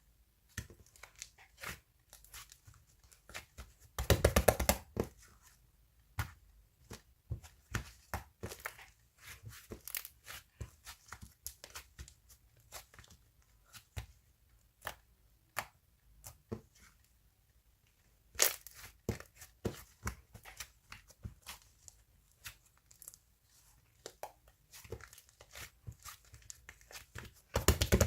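Scattered sharp clicks and taps, with three short, dense bursts of rapid crackling, like tearing or crinkling, about four seconds in, near the middle and at the very end.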